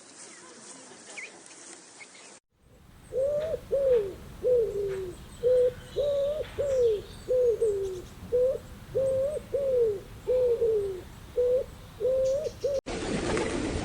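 A bird calling in a rapid run of about fifteen short, low, cooing notes, each slightly bent in pitch, that cuts off abruptly near the end.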